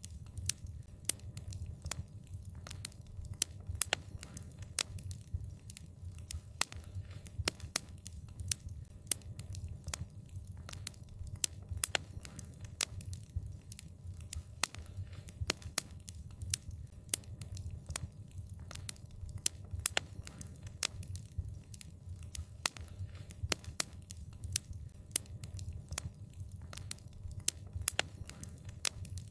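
Wood fire crackling: irregular sharp snaps and pops, several a second, over a low steady rumble of the burning fire.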